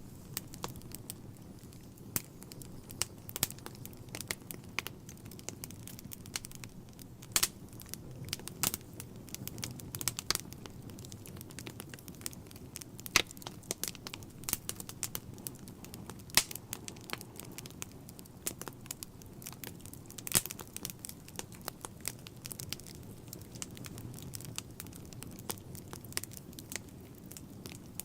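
Wood fire burning in a fireplace: a steady low rush of flames with irregular crackles and pops, a few sharper pops standing out.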